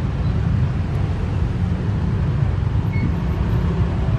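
Steady, loud, low rumble of vehicle noise.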